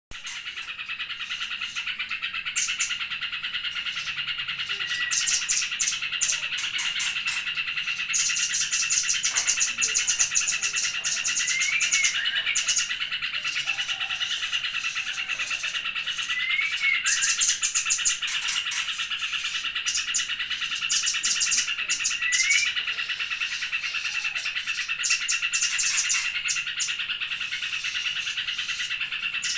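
Small songbirds singing: rapid high chattering trills in bursts and short rising whistled notes every few seconds, over a steady high trill that never stops.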